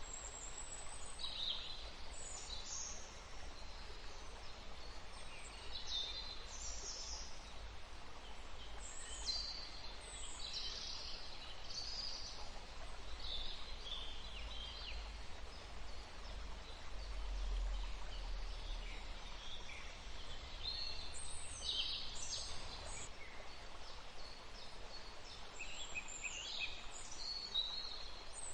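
Birds chirping: many short, high calls from several birds, coming every second or so, over a steady background hiss.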